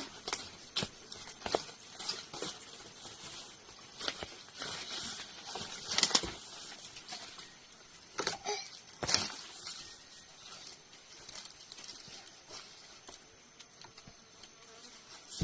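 Irregular rustling and crackling, a string of short sharp crackles and brief rustles at uneven intervals, with the loudest a little past halfway.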